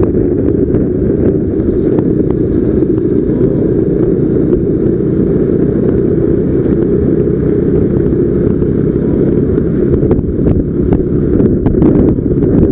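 Heavy wind buffeting the camera microphone: a loud, steady low rumble with occasional small clicks.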